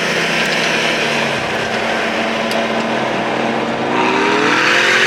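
Car engine pulling hard under full acceleration, heard from inside the cabin over wind and road noise, with the revs climbing about four seconds in.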